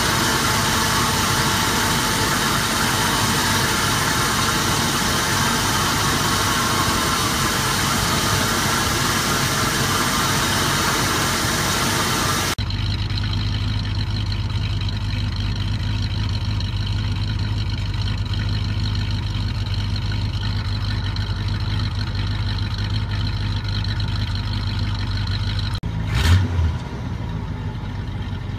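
1974 Pontiac Grand Prix V8 idling steadily. It is first heard under the open hood, with a hissy mix of fan, belt and intake noise, then at the dual exhaust tips as a steady low hum. A brief louder burst comes near the end.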